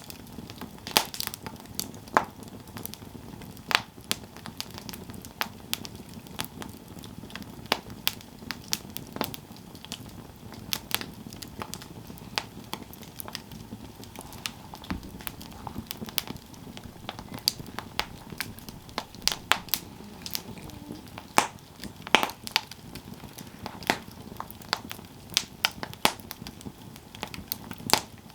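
Campfire crackling: irregular sharp pops and snaps, some much louder than others, over a steady low hiss of burning.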